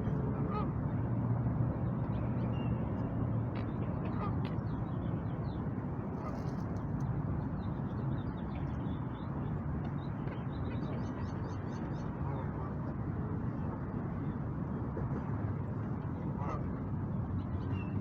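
City park ambience: scattered calls of ducks and geese over a steady low background hum, with a quick run of bird chirps about eleven seconds in.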